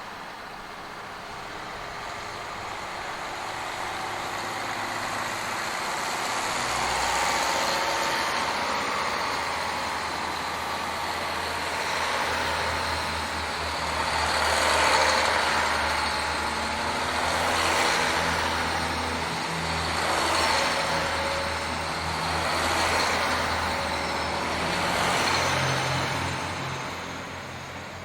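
A diesel multiple-unit express train rolling slowly past, its engines droning low. The sound swells each time a car goes by, about every two and a half seconds, then fades as it passes.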